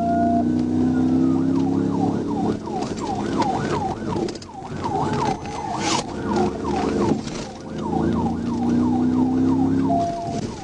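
Police car siren in a pursuit, going from a slow wail into a fast yelp of about three sweeps a second, over a vehicle engine that speeds up near the start and again near the end.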